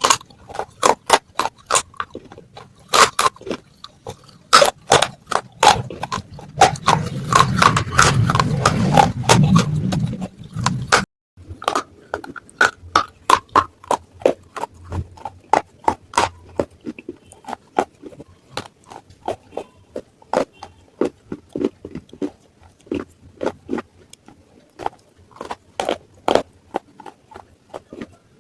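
Pieces of baked clay matka (earthen pot) crunching: many sharp, irregular crunches that come thicker and louder for several seconds. A brief gap near the middle follows, then steadier crunching.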